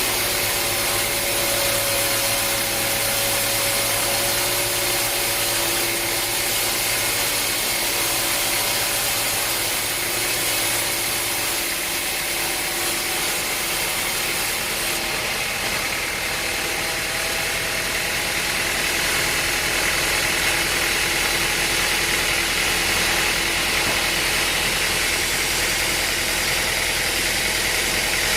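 Sawmill machinery running steadily: a continuous mechanical hum with a few held tones. A low tone drops out about twelve seconds in.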